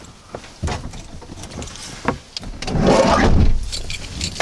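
Handling noises inside a minivan: a few light knocks and clicks, then a louder rustle and bump about three seconds in.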